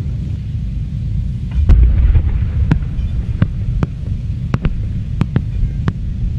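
Fireworks display: a steady deep rumble of shell bursts, heavier about a second and a half in, with a string of sharp cracks through the rest.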